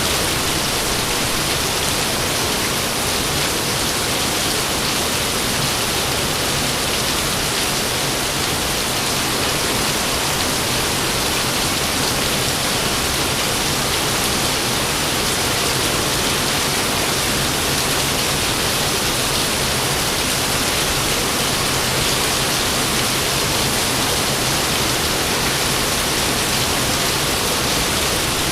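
Steady, heavy rain falling as an even hiss, with no thunder heard.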